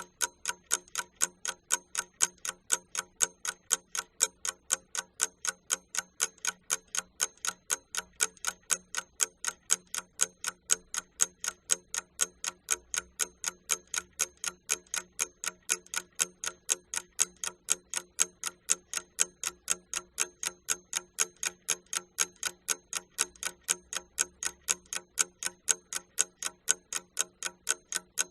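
Clock-like ticking, sharp and evenly spaced at about three to four ticks a second.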